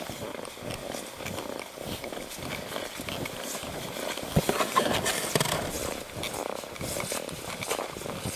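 Footsteps crunching through deep powder snow on a hike, an irregular run of crunches with a few louder ones about halfway through.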